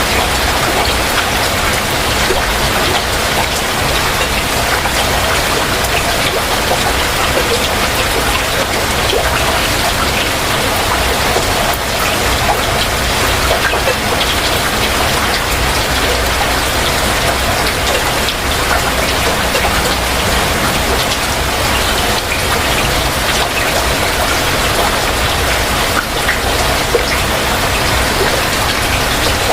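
Heavy rain falling steadily, with many individual drops striking a surface.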